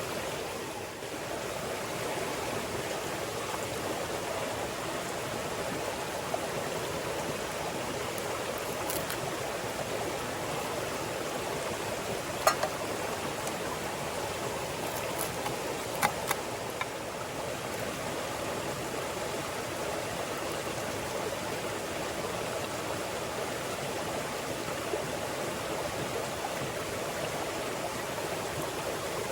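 Clear mountain stream babbling steadily over rocks, with a few short sharp clicks about halfway through.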